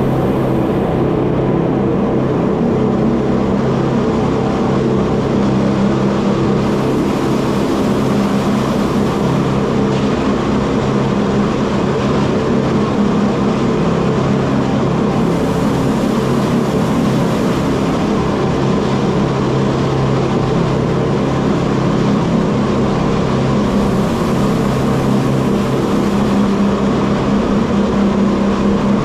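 Electric cogwheel (rack) train running downhill through a tunnel: a steady, unbroken running noise of wheels and rack gear with a low hum from the drive.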